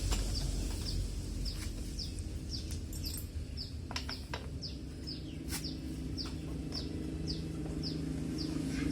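A small bird calling: a run of short high chirps, each falling in pitch, about two a second. A few sharp clicks or taps sound among them.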